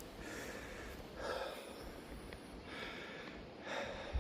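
A man breathing hard through mouth and nose, four soft breaths about a second apart.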